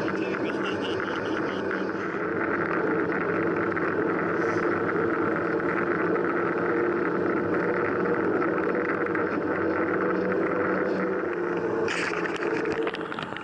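Steady wind rush on the microphone and tyre-and-road noise from a bicycle rolling along at riding speed, with a brief hissier gust about twelve seconds in.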